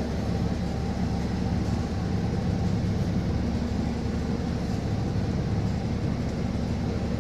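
City bus driving, heard from inside: a steady low engine and road rumble.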